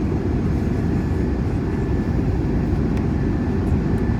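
Steady in-flight cabin noise of an Airbus A321: a dense low rumble of airflow and engines, with a faint steady high tone above it.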